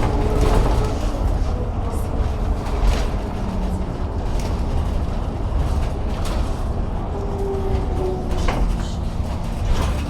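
Scania K280UB city bus running, with the steady low drone of its Scania DC9 five-cylinder turbodiesel and rattles throughout. Brief whining tones from its ZF Ecomat 6HP604 automatic gearbox come and go, the 'singing' of a gearbox that was broken.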